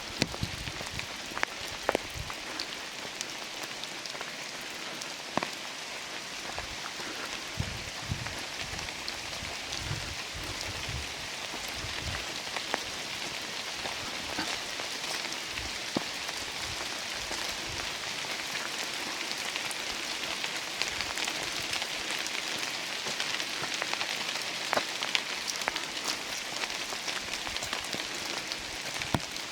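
Steady rain falling in a redwood forest, a constant hiss with many separate drops ticking sharply on nearby surfaces. Soft low thumps come and go in the first dozen seconds.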